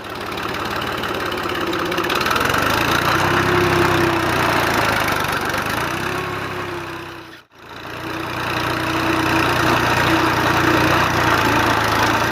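Engine running steadily at idle, cutting out suddenly for a moment about seven and a half seconds in before running on again.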